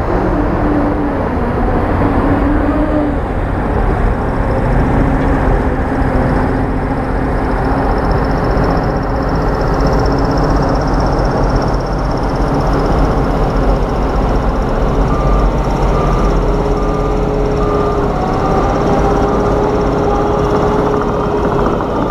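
Heavy diesel earthmoving machinery running steadily: a deep engine rumble with a whine that drifts slightly in pitch.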